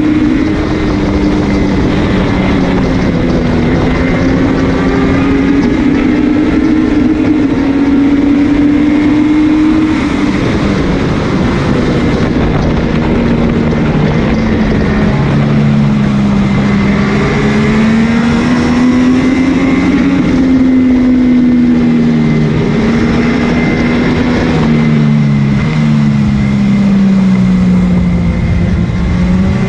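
MV Agusta F3's three-cylinder engine running hard at racing speed. Its note rises and falls, with a few abrupt steps as the rider shifts gear and gets on and off the throttle. Heavy wind rush on the onboard microphone runs under it throughout.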